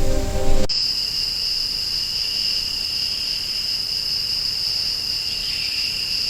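Insects trilling steadily at a high pitch, an unbroken jungle-night drone that starts abruptly after a moment of music.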